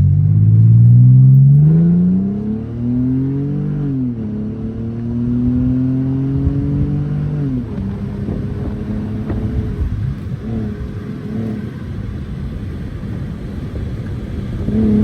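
Car engine accelerating through the gears: its pitch rises, drops at a gear change about 4 s in, rises again, drops at another shift near 8 s, then holds steady at a lower pitch while cruising.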